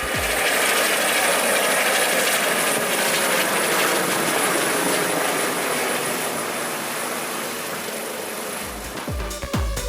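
A steady rushing noise with a faint high whine above it and no bass, like a jet or rocket engine sound effect, slowly easing off; electronic music with a low beat comes back near the end.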